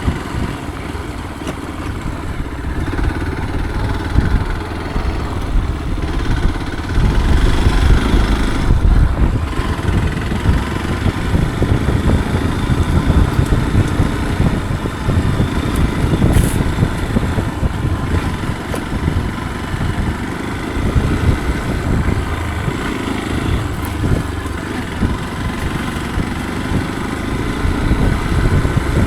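Off-road motorcycle running while being ridden along a dirt forest trail, the engine note rising and falling with the throttle.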